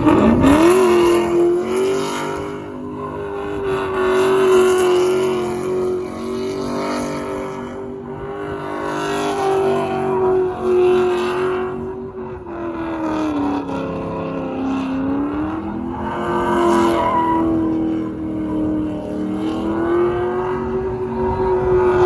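A vehicle engine revved up sharply and held at high revs, sagging twice and climbing back.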